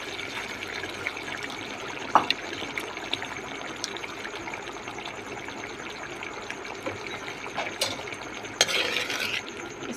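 Mutton and masala frying steadily in a metal wok as yogurt is added, with a few light clicks and a louder stretch of noise near the end.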